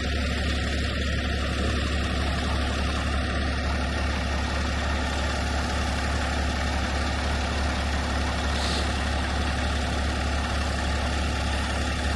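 Western Star dump truck's diesel engine running steadily with a deep, even drone.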